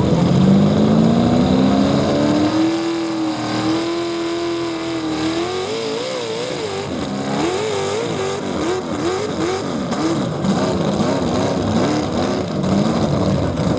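Modified 4x4 pulling truck's engine at full throttle under load. It revs up steeply over the first few seconds and holds briefly. From about halfway, its pitch wavers up and down again and again as the revs rise and fall, then drops near the end as it backs off.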